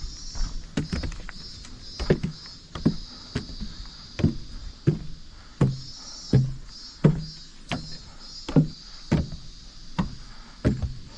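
A hiker's footsteps on a dirt mountain trail, walking downhill at an even pace of about three steps every two seconds. A high, pulsing drone runs steadily behind them.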